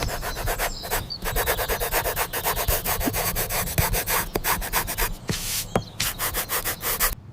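Rapid, rhythmic rubbing or scraping strokes, about eight a second, with a few sharp clicks among them, cutting off abruptly near the end.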